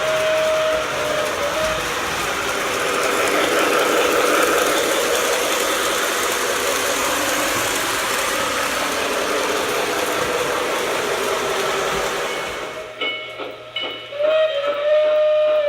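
Lionel TMCC model train running, its electronic sound system playing steam-locomotive effects. A whistle tone sounds at the start over a steady noisy running sound. About 13 s in the sound changes abruptly to a clearer, evenly repeating chuff with whistle blasts near the end.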